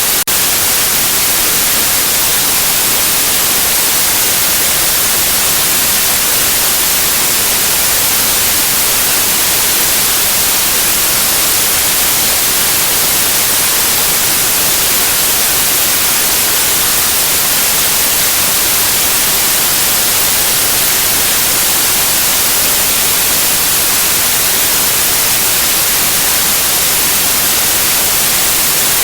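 Steady, loud white noise: an even hiss with no tone or rhythm, brightest in the treble, with one momentary dip just after the start.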